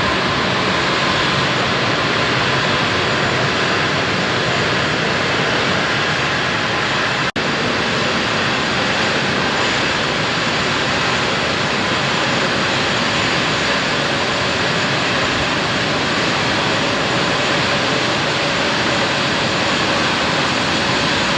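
Jet airliner engines running, a steady broad rush with a faint high whine, cut off for an instant about seven seconds in.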